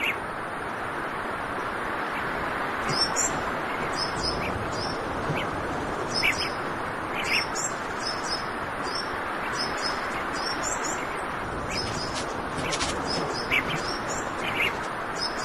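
Wild birds calling: short high chirps, often in quick pairs, at irregular intervals, over a steady rushing background noise.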